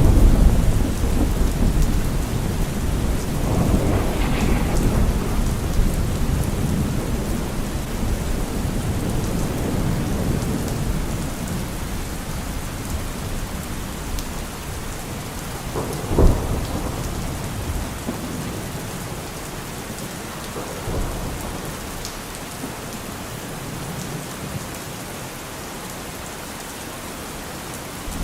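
Steady heavy rain with rolling thunder. The rumble is loudest at the start, swells again a few seconds in, and a sharp thunderclap cracks about halfway through before the thunder dies down and the rain carries on.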